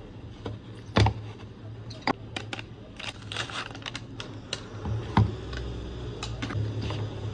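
Snack packets and plastic storage containers being handled during a restock: a string of sharp clicks and taps, with a stretch of rustling packaging about three seconds in.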